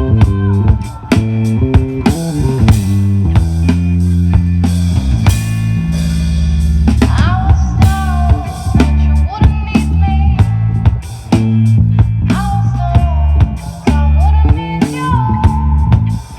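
Rock band playing an instrumental passage live: drum kit, bass guitar and electric guitar, with a lead line that bends up and down in pitch several times.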